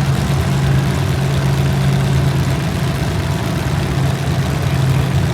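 A steady low mechanical hum, even throughout, of the kind an idling engine or a running machine makes.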